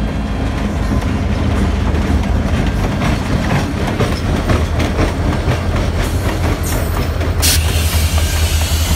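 Freight train led by a CN diesel-electric locomotive passing close by, with a steady low engine and wheel rumble and wheels clicking over the rail joints.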